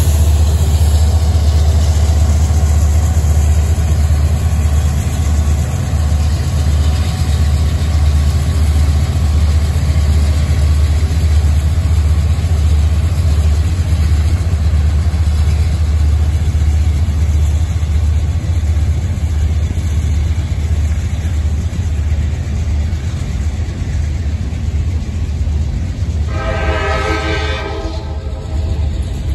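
Manifest freight train running with a steady low rumble. Near the end a locomotive horn sounds one blast of about two seconds.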